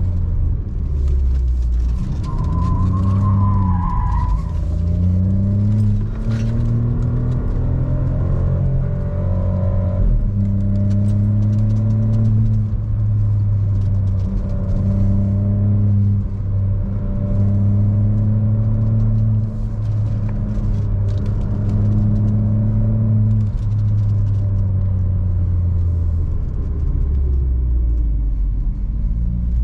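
Seat Ibiza FR's 1.0 TSI turbocharged three-cylinder engine with a Friedrich sport exhaust, under way. Revs rise and fall several times in the first ten seconds, then hold fairly steady with small dips, and drop off near the end. A brief warbling whistle is heard a couple of seconds in.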